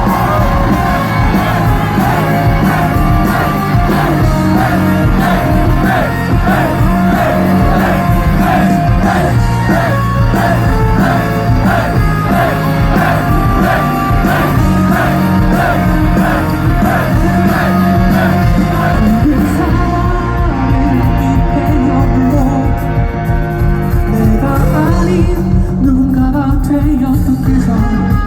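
Live rock band playing loud amplified music with guitars, bass and drums, with singing; a repeating guitar figure runs through most of it, and the sound thins out in the highs about two-thirds of the way through.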